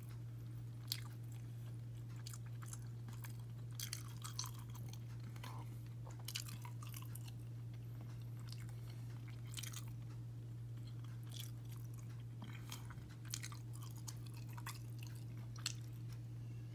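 A person chewing a mouthful of crispy breaded chicken and waffle sandwich: scattered soft crunches and small mouth clicks come at irregular intervals over a steady low electrical hum.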